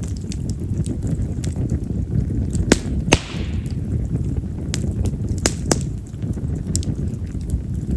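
Wild cherry firewood burning in an open fire: a steady low rush of flame with frequent sharp crackles. The loudest pops come in two pairs, a little under three seconds in and again about two and a half seconds later, the first pair followed by a brief hiss.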